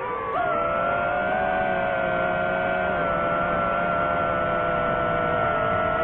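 DJI FPV drone's motors and propellers whining, rising quickly in pitch about half a second in, then holding a nearly steady pitch.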